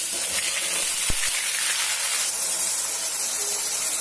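Ground onion paste hitting hot oil in a pan and sizzling, starting suddenly and then holding steady and loud.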